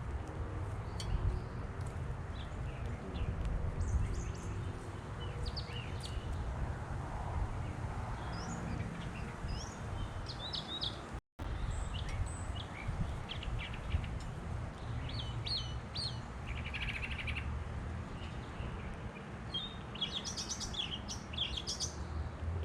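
Birds chirping and calling in short, scattered notes, with a quick run of chirps near the end, over a steady low rumble. The sound cuts out for a moment about eleven seconds in.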